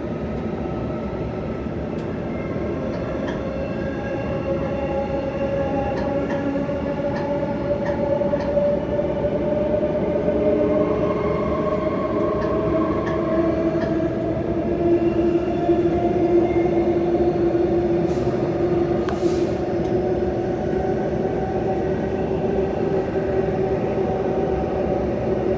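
Bombardier B-series electric train's traction motors whining as it accelerates, several tones rising slowly in pitch over a steady wheel and track rumble, heard from inside the passenger car.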